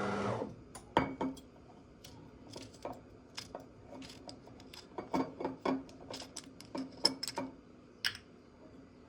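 Dishes and cutlery clinking and knocking as they are handled: an irregular string of light clicks and clinks, the sharpest about a second in and around seven seconds in.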